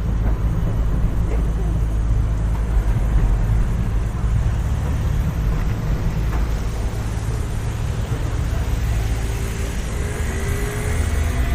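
City street ambience: a steady low rumble of road traffic, with faint voices of passers-by.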